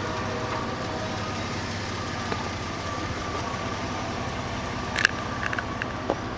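2002 Jeep Liberty's 3.7-litre V6 idling steadily, with a few sharp clicks about five seconds in.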